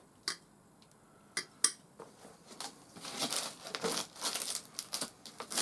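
Packaging being handled: a few sharp clicks and knocks, then about two seconds of crinkling and rustling from about halfway in.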